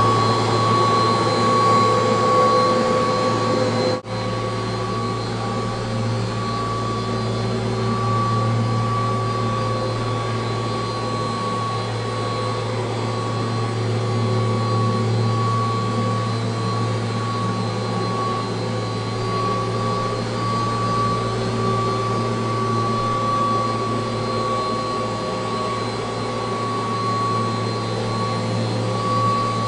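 1985 Kirby Heritage II upright vacuum cleaner running steadily, its motor and fan giving a constant high tone over a low hum. There is a brief break in the sound about four seconds in, after which it runs slightly quieter.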